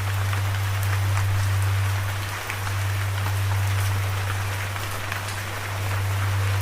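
Steady rain falling, an even hiss with scattered drop ticks, over a strong steady low hum that dips briefly about two and a half seconds in.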